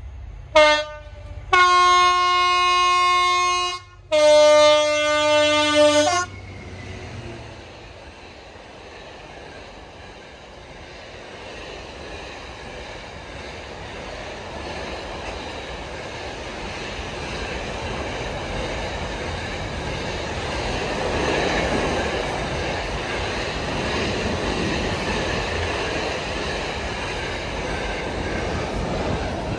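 GB Railfreight Class 66 diesel locomotive sounding its two-tone horn: a short blast, then a long high note followed by a long low note, over about six seconds. The train then passes, and its container wagons rumble along the rails, growing steadily louder until the sound drops away suddenly at the end.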